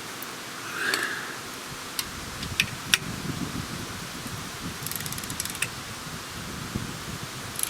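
Socket ratchet wrench tightening exhaust pipe nuts: a few separate metallic clicks, then a quick run of ratchet clicks about five seconds in, with handling noise against the metal.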